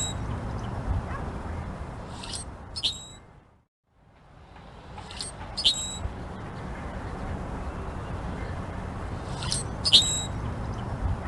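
Chopi blackbird (pássaro-preto) calling: a short two-note call, repeated three times about every three to four seconds, over steady low background noise. The whole sound fades out and back in briefly, a little over three seconds in.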